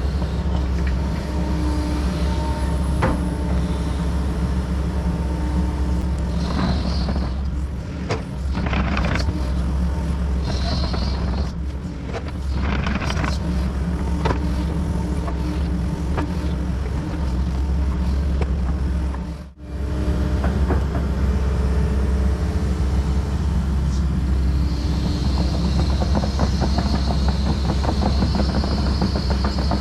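Kobelco SK140 excavator's diesel engine running steadily under work, with scattered knocks and clanks. The sound cuts out for a moment about two-thirds of the way through, and a hiss rises near the end.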